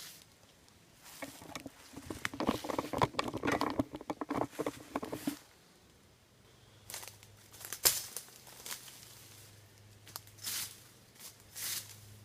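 Dry twigs, branches and leaf litter crackling and snapping as the bike is pushed through brush over a fallen tree: a dense burst of crackling for about four seconds, then scattered snaps and rustles.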